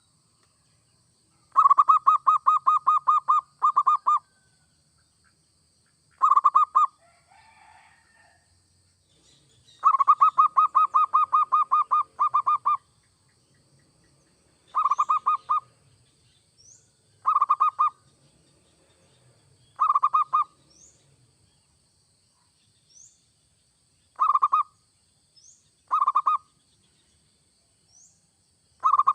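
Zebra dove (perkutut) cooing in phrases of rapid pulsed notes, some running about two seconds and others short bursts, with pauses between them. A faint high chirp rises briefly every second or two in the second half.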